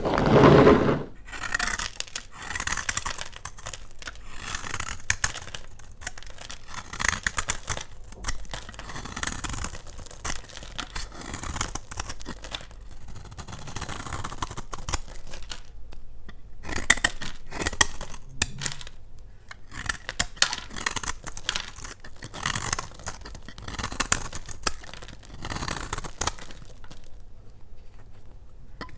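Dry laundry soap being cut with a blade: a string of separate cuts, one every second or two, the first the loudest.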